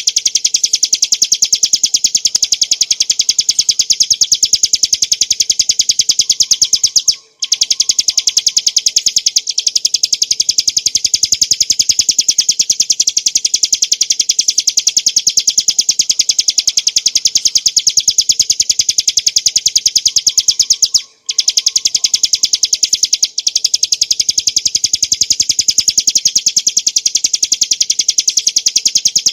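Ciblek gunung, a small prinia, singing a loud, unbroken run of rapid, high-pitched repeated notes in the continuous 'ngebren' style. The song breaks off briefly about seven and twenty-one seconds in.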